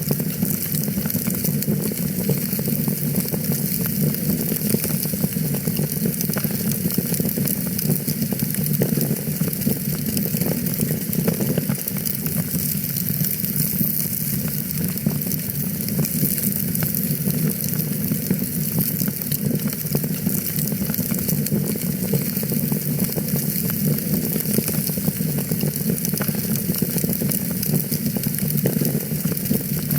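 Wood fire burning in a fireplace, crackling steadily with many small pops and snaps.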